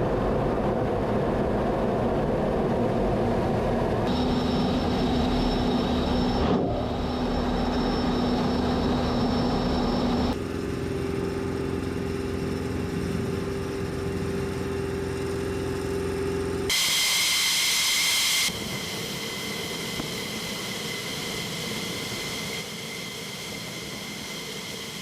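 Jet engine noise: a steady rushing roar with a high whine over it, changing abruptly several times as separate recordings are cut together.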